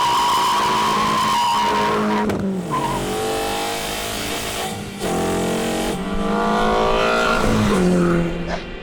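Renault Sandero R.S. 2.0 four-cylinder engine under hard acceleration, its pitch climbing through the revs and dropping at gear changes about two and five seconds in, then falling as the throttle is lifted near the end. A high steady squeal rides over the engine for the first two seconds.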